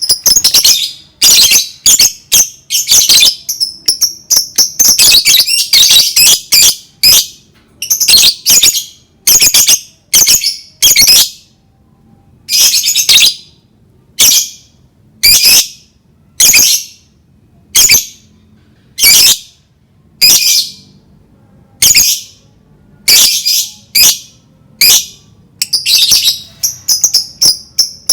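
Lovebird calling with loud, shrill, high-pitched chirps: quick strings of calls in the first few seconds and again near the end, and single calls about a second apart in between.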